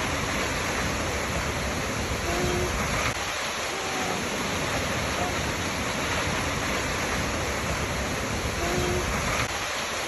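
Waterfall water rushing steadily, with a few faint short tonal notes now and then.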